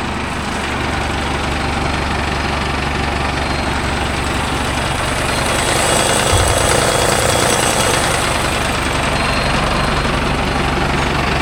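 Diesel engine running steadily at idle. About six seconds in, a broad hiss joins it and grows louder.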